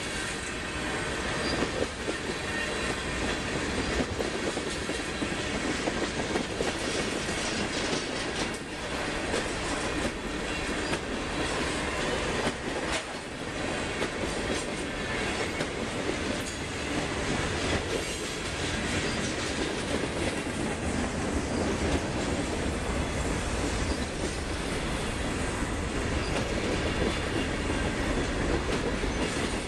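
Freight train cars rolling past at steady speed, a continuous rumble with the clatter of wheels over the rails and faint wheel squeal.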